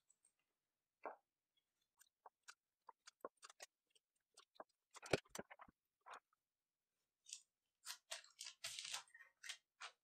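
Faint tabletop handling sounds as a ruler, a leather strip and a marker pen are moved and used on newspaper: scattered small clicks and taps, a louder knock about halfway through, and a spell of crackly paper rustling near the end.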